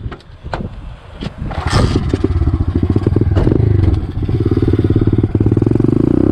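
Pit bike's small single-cylinder engine: a few sharp clicks and clunks, then the engine comes in about two seconds in and runs loudly, pitch rising and falling as it is revved.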